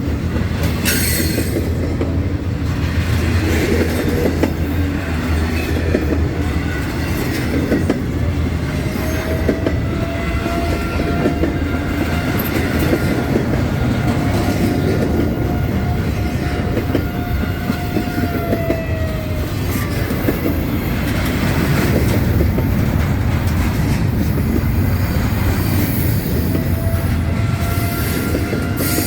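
Train cars rolling past with a loud, steady rumble on the rails. A long, high, steady wheel squeal runs from about nine to nineteen seconds in and comes back near the end.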